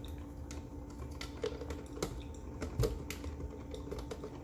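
A pet bird's beak and feet making light, irregular clicks and taps on hard objects on a counter, several a second with one louder knock near the middle, over a steady low hum.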